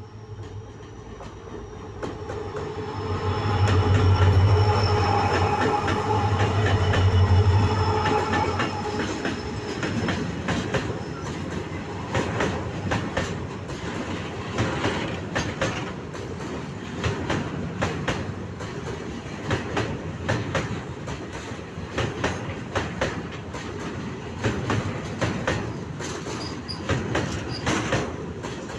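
A single locomotive hauling a heavy train of loaded oxygen tank wagons passes close by. Its engine hum swells to its loudest a few seconds in, with a thin high wheel squeal. Then the long line of wagons rolls past with a steady clickety-clack of wheels over rail joints.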